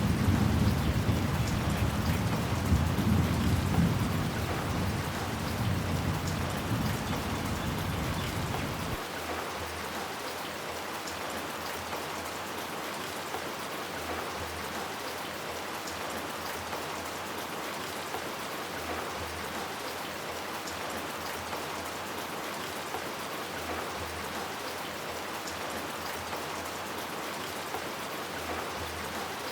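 Steady rain falling, with a low rumble of thunder that fades over the first several seconds and cuts off about nine seconds in, leaving only the rain.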